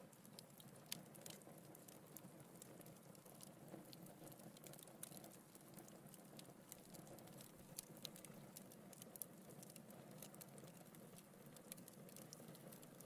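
Wood fire crackling faintly: irregular small pops and snaps, a few louder than the rest, over a soft steady rush of burning logs.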